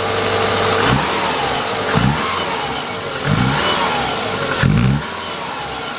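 2000 Subaru Impreza's 2.2-litre flat-four engine running rough with a misfire, blipped four times about a second apart and dropping back after each. New plugs, wires and coil have not cured the misfire, and a burnt valve is suspected.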